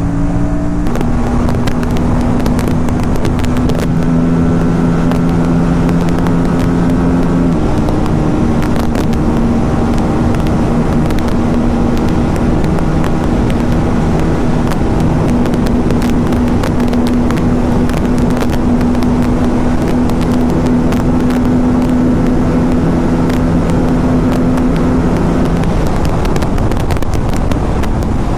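Aprilia RS 457's 457 cc parallel-twin engine running steadily at highway cruising speed, its note stepping in pitch about a second in and again about seven and a half seconds in, under heavy wind rush and buffeting on the microphone.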